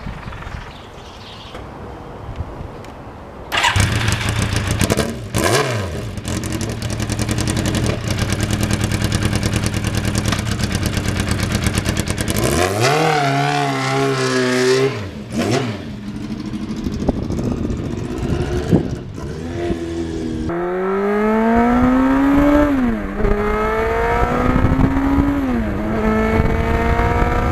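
1991 Yamaha FZR motorcycle's inline-four engine. It comes in suddenly a few seconds in and runs with blips of the throttle that rise and fall. In the last part the bike accelerates through the gears, the engine pitch climbing and then dropping back at each upshift.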